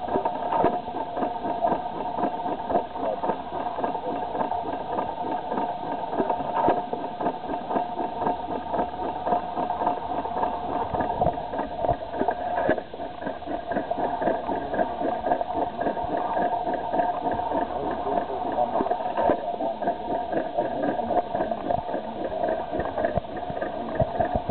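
Detroit hit-and-miss stationary engine running, its low beat coming and going every few seconds over a steady mechanical hum.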